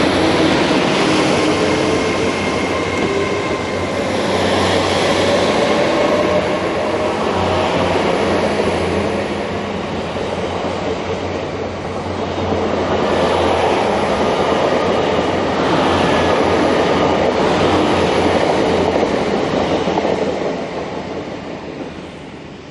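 Train running along the track: a loud, steady rumble and rattle of wheels on rails that swells and eases a few times and fades away near the end.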